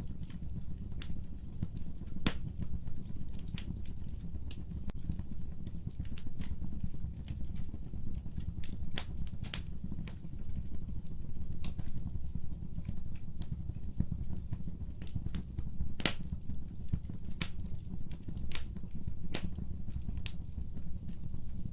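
Fireplace fire crackling: irregular sharp pops and snaps, a few louder ones, over a steady low rumble of the flames.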